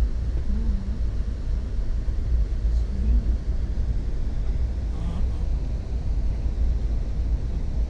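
Steady low rumble of a passenger train running along the track, heard from inside the coach.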